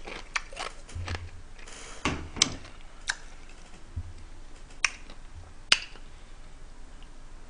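Close-up mouth noises of a person chewing food with the mouth closed: scattered sharp wet clicks and smacks, about half a dozen, with the loudest near the middle and another about two-thirds of the way through.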